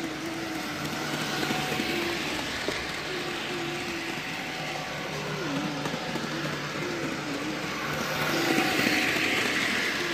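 HO scale model train running on its track: the locomotive's small electric motor whines with a wavering pitch over a steady low hum, and the running noise swells near the end as the train comes closer.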